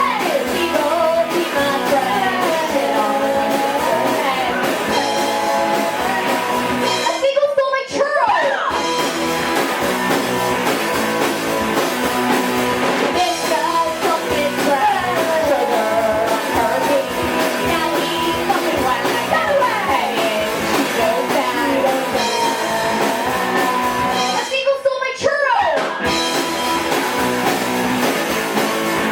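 Live rock and roll band playing, with a singer over guitar.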